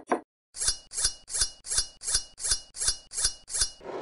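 Kitchen knife slicing a raw potato into sticks on a wooden cutting board: about ten quick, evenly spaced cuts, roughly three a second, each a crisp crunch through the potato ending in a knock of the blade on the board.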